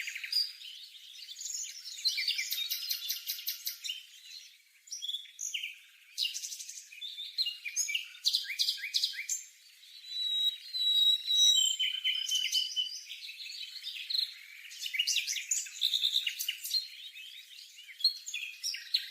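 Birds calling busily: a dense run of rapid chirps, trills and rattling notes, with a few clear whistled notes around the middle.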